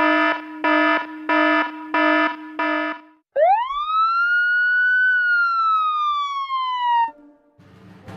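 Electronic siren-like sound on the soundtrack. It starts as a run of evenly spaced beeps, about three every two seconds, over a steady low tone. Then one long siren wail sweeps up quickly and slides slowly down, cutting off about 7 seconds in.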